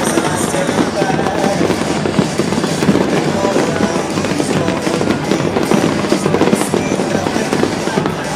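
Fireworks display with many bangs and crackles in rapid, overlapping succession, steady throughout, with music playing alongside.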